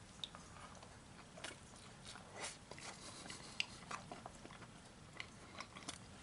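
Faint chewing of a mouthful of chicken and rice wrapped in a soft flour tortilla: irregular wet mouth clicks and smacks.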